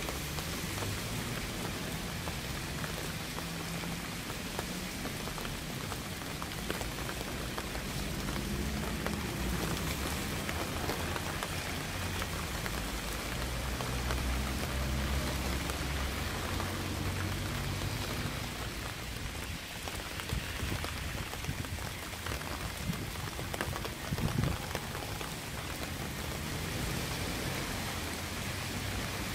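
Steady rain falling, a dense even hiss with individual drops ticking, under a low rumble that swells and fades at times.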